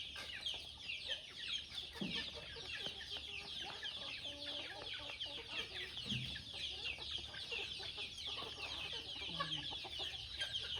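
A crowd of chicks peeping continuously: a dense chorus of many short, high, falling cheeps overlapping one another.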